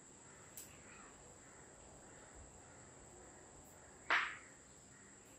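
A single short, harsh bird call about four seconds in, over quiet room tone.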